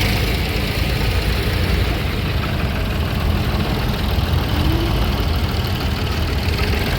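An engine idling steadily, low-pitched and even, with no change in speed.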